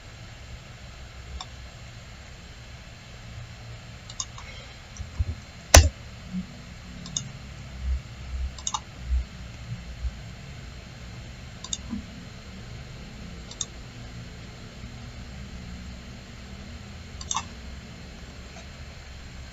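Computer mouse clicks, scattered and a second or more apart, the loudest about six seconds in, with a few dull low thumps around the middle over a steady low hum.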